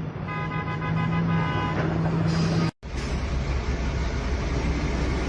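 A heavy truck engine running, with a vehicle horn sounding for about a second and a half near the start. After a sudden break, a deeper, low engine rumble takes over.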